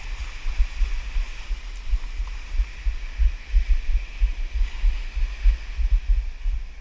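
Low, irregular thumping rumble from a kayak being paddled hard, knocking through the hull and a GoPro's housing, over a steady faint hiss.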